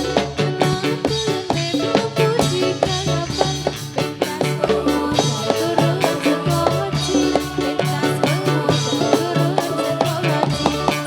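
Live band playing an instrumental passage between sung verses: a fast, steady drum beat over a pulsing bass line and sustained melody notes.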